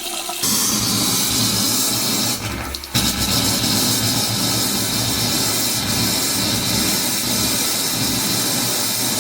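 Hot-water tap running at full flow, a steady rushing hiss with a brief dip about two and a half seconds in, as water is run through to fill a newly installed water heater.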